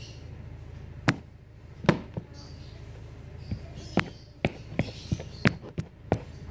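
A series of irregular sharp knocks and taps, about ten over several seconds, the loudest two about a second apart near the start, with faint voices in the background.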